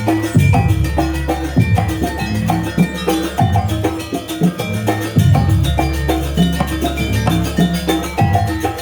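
Live Banyuwangi jaranan gamelan ensemble playing a fast sampak: drums and struck metal percussion keep a quick, steady beat over ringing pitched metal notes and low drum thumps.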